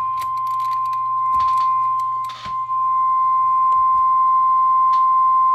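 Steady, loud audio test tone near 1 kHz, with a low hum underneath, briefly dipping about two and a half seconds in. It is the tone used to modulate the CB transmitter on AM while its modulation waveform is checked on the oscilloscope.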